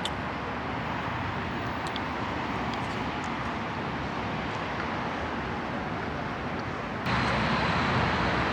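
Steady car noise with no distinct events, stepping up louder about seven seconds in.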